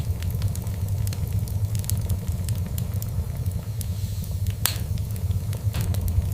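Wood fire burning with a steady low rumble and a scatter of crackles and small pops, one louder pop a little under five seconds in.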